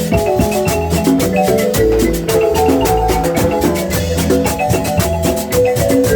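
Marimba music: many quick mallet strikes on wooden bars, melody notes repeated rapidly over a low bass line, played continuously.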